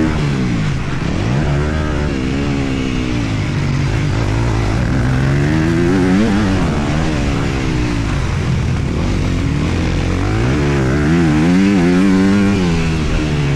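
Single-cylinder four-stroke motocross bike engine under hard riding, its pitch climbing and dropping several times as the throttle is opened and shut through the track's turns and jumps.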